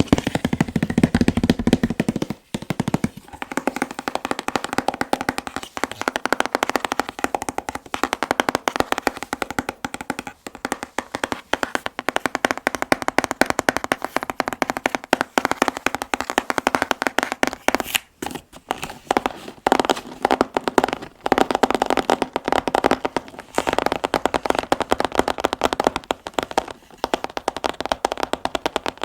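Fast tapping on an anime figure's packaging box: a dense, unbroken stream of quick taps.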